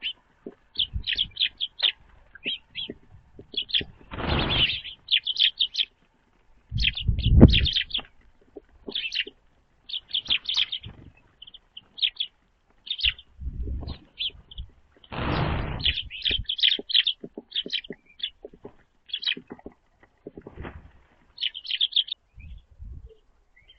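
Small songbirds chirping in quick runs of short, high calls, with a few brief rushing bursts and low thumps in between, the loudest about a third of the way in.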